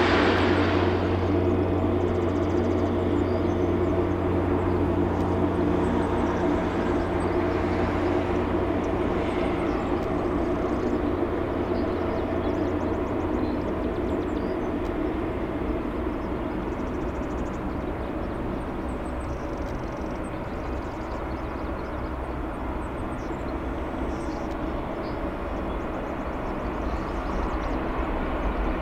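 Jet airliner engines on a Boeing 777-200LR (GE90 turbofans) during its arrival. A loud rush drops away in the first second, then a steady engine hum with held whining tones slowly fades.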